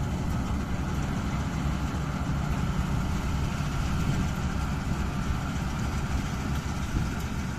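Mahindra Novo 655 DI tractor's diesel engine running steadily at a low, even speed.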